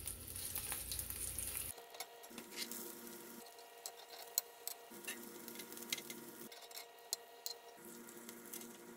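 Breaded mutton chops shallow-frying in hot oil, sizzling faintly with scattered small pops and crackles as they are turned in the pan.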